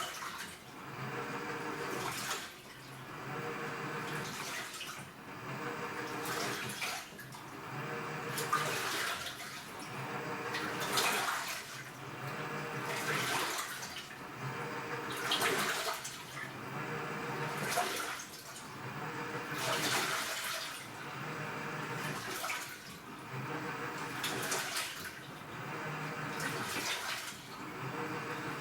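AQUA washing machine with a direct-drive inverter motor agitating its wash load. Water surges and swishes about every two seconds as the motor drives back and forth, with a low motor hum between the surges.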